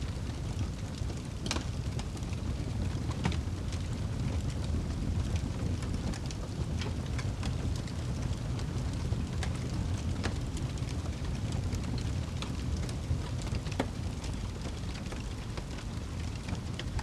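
Wood fire crackling and popping in irregular sharp clicks over a steady low rumble of wind.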